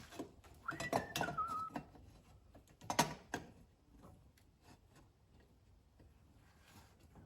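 Metal parts being handled: a short high squeak sliding down in pitch about a second in, a loud clatter about three seconds in, then scattered light clicks.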